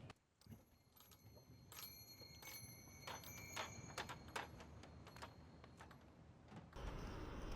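Faint series of sharp clicks and light metallic jingling, with a brief ringing tone on some of the clicks.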